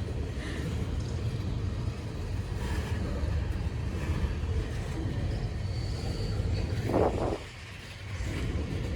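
Freight train cars rolling past, a steady low rumble of wheels on rail, with a short louder burst about seven seconds in.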